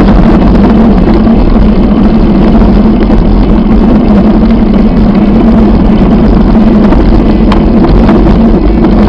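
Loud, steady wind rumble on the camera microphone of a bike speeding downhill, drowning out everything else.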